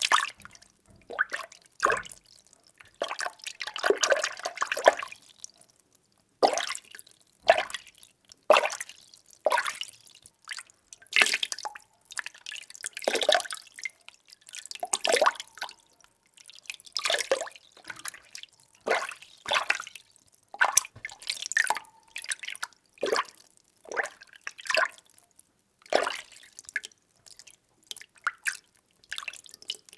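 Water being stirred by hand in a container: irregular sloshes and small splashes, about one or two a second with short pauses between them, and a longer churning swirl early on.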